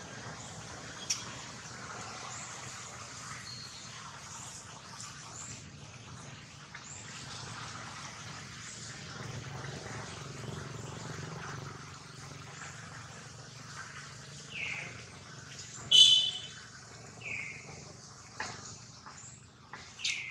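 Birds chirping now and then over a faint outdoor background. In the later part come a few short high squeaks, and about 16 seconds in there is one loud, sharp call.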